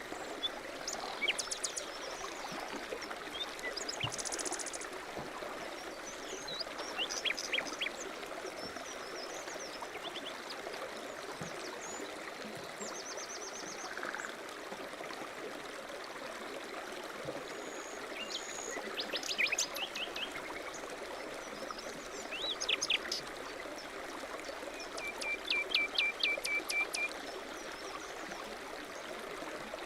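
A mountain stream running steadily, with small birds chirping and trilling over it; a run of quick repeated chirps comes near the end.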